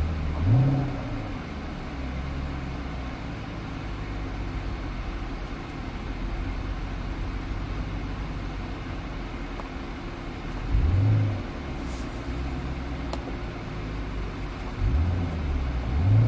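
Car engine idling, revved in short blips: once near the start, once about two-thirds of the way through, and twice in quick succession near the end.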